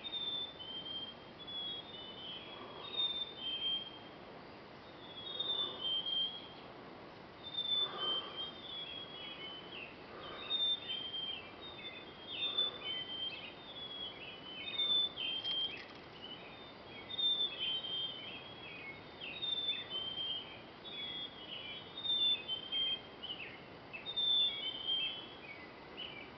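A songbird singing, short high whistled phrases repeated every two seconds or so, over a faint steady hiss.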